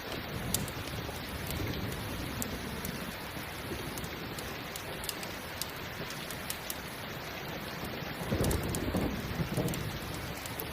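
Steady rain with rumbles of thunder, the strongest swelling about eight seconds in, and a campfire crackling with scattered sharp pops.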